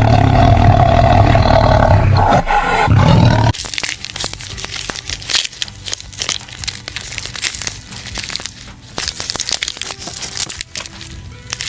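A loud, long animal roar that cuts off suddenly about three and a half seconds in. It is followed by quieter crackling and clicking with a few faint held tones.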